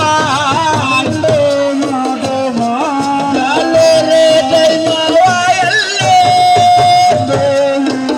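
Live Senegalese assiko music: a wavering, ornamented melody line over a steady beat of hand drums.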